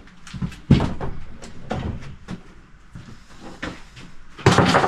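Objects being set onto and moved on a wooden shelf: a sharp knock about 0.7 s in, lighter knocks around 2 s, and a louder, longer clatter near the end.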